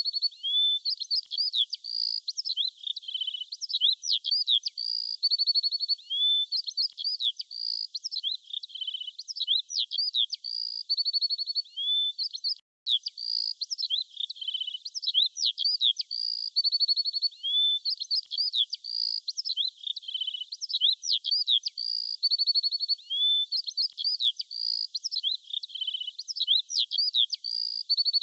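Songbirds singing: quick chirps, short whistles and rattling trills. It is a looped recording that repeats about every thirteen seconds, with a split-second dropout at the join.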